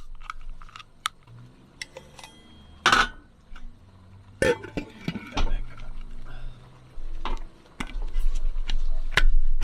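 Glasses, cans and utensils clinking and knocking in irregular handling noises as drinks are poured and mixed.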